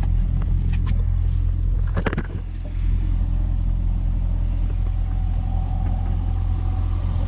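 Chevrolet Corvette C7 Stingray's 6.2-litre V8 idling steadily with a low hum, and a car door shut with a short clunk about two seconds in.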